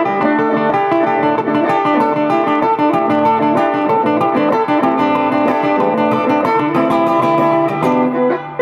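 Blues guitar music: a run of plucked single notes and chords played continuously.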